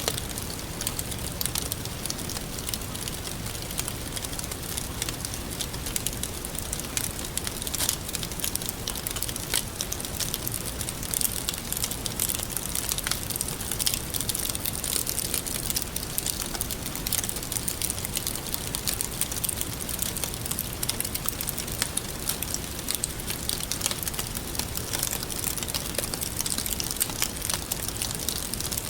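Wood fire crackling steadily, with many small sharp pops and snaps over a continuous hiss.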